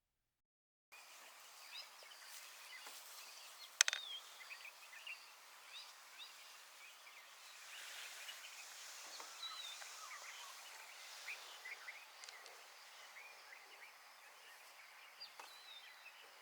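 Faint savanna ambience of many small birds chirping and calling, starting about a second in, with one sharper, louder call about four seconds in.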